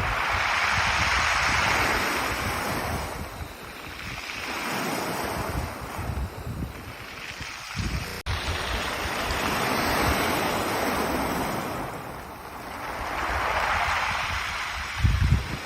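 Ocean waves washing up a pebble beach and drawing back, swelling and fading about four times, with wind buffeting the microphone, most strongly near the end.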